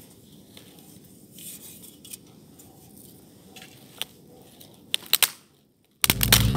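Faint scraping and a few sharp cracks of dry wood being broken and handled, the loudest a pair of snaps about five seconds in. Background music cuts out at the start and comes back near the end.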